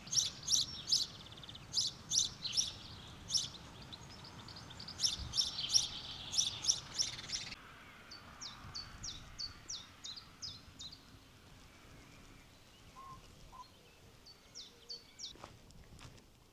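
Small songbirds chirping: sharp, high calls in quick clusters for the first seven seconds or so, then fainter chirps repeated every half second or so.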